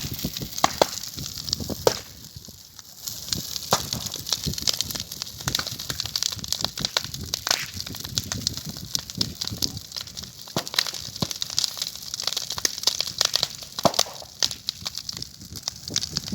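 Wood bonfire burning, with dense, irregular crackling and popping over a steady hiss.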